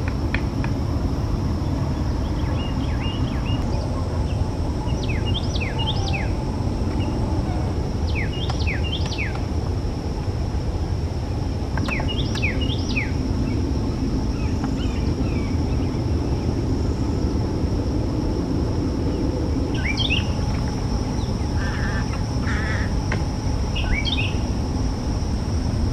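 Small birds chirping in short clusters of quick notes every few seconds, over a steady high tone and a constant low rumble of background noise.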